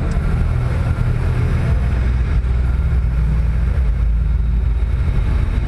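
Car engine running steadily at low speed, a continuous low rumble with some wind noise on the microphone.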